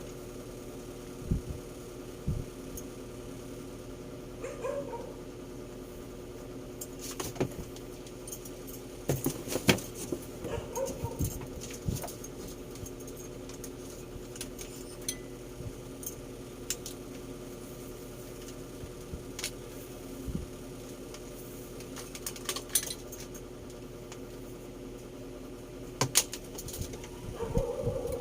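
Scattered clicks and knocks of objects being handled, with a few short dog yips, over a steady low hum.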